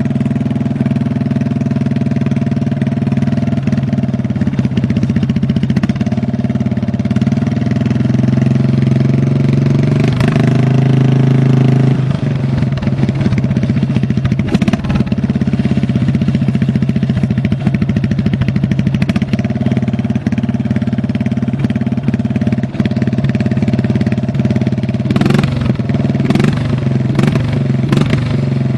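Lawn tractor engine running steadily. It speeds up briefly about ten seconds in and settles back two seconds later, and a few sharp clicks come near the end.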